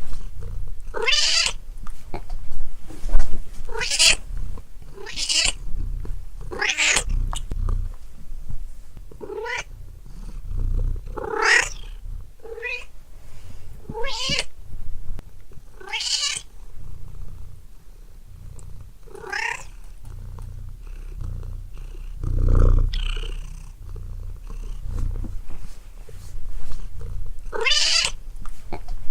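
A domestic cat meowing again and again: about a dozen short meows with pauses between them, over a steady low rumble.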